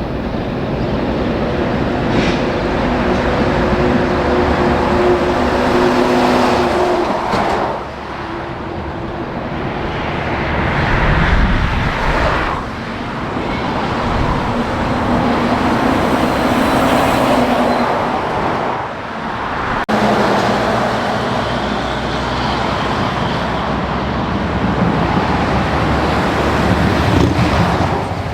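Heavy trucks passing one after another on a highway: engine notes and tyre noise that swell as each one goes by and dip briefly between them, several times over.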